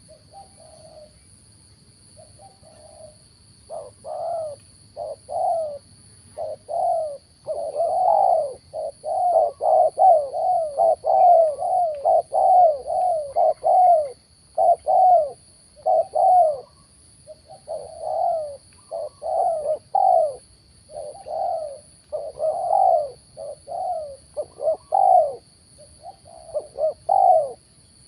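Spotted doves cooing: a long run of short repeated coos, faint at first and then coming thick and fast from a few seconds in.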